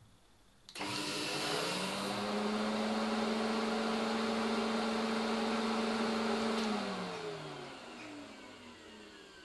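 Dust extractor's vacuum motor switching on with a sudden start and a rising whine, running steadily for about six seconds, then switched off and winding down with a falling pitch.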